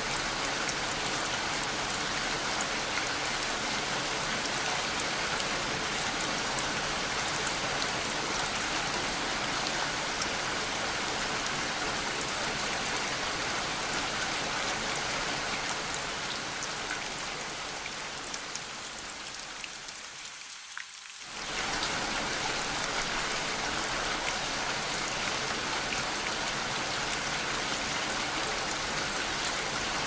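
Steady rain falling, an even hiss with fine patter of individual drops. About two-thirds of the way through it thins out and drops away for a moment, then cuts back in suddenly at full level.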